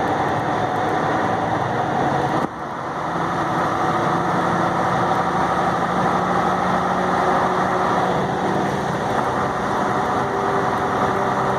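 Truck engine running steadily under way, with a short drop in sound about two and a half seconds in before it picks back up.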